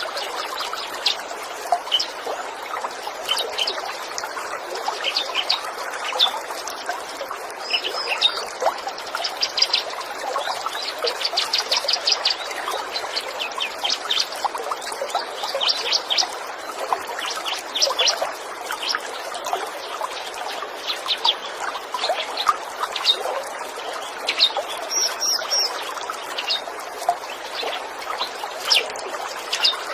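Small songbirds chirping and trilling throughout, with short repeated notes and a fast trill about a third of the way in, over the steady sound of trickling stream water.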